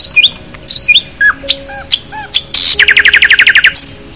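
Bird calls: a string of short, sharp chirps, then a rapid rattling trill of about ten notes a second for about a second, then more chirps.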